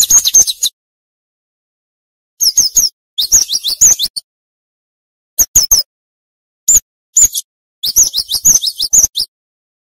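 Cinereous tit (gelatik batu) calling in quick bursts of high, rapid chirps, seven or so short phrases broken by brief silent gaps.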